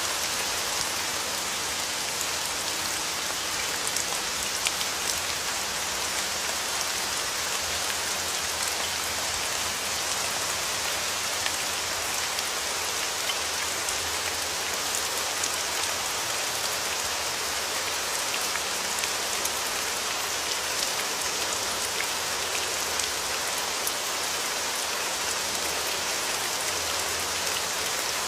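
Steady rain falling on a surface, a dense even patter with many small individual drop ticks.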